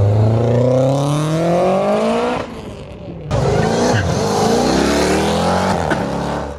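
A performance car's engine accelerating hard, its revs climbing steadily. The note drops off suddenly about two and a half seconds in, then climbs again in a second hard pull.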